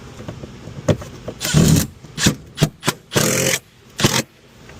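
Plastic car door trim panel being pressed onto the door, its retaining clips snapping into place: a series of sharp knocks and short scraping rushes of plastic on metal.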